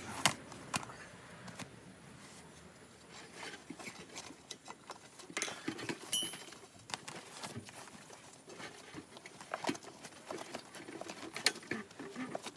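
Hand tools and motorcycle parts being handled during tyre and wheel work: scattered clicks, taps and knocks, with a brief high squeak about six seconds in.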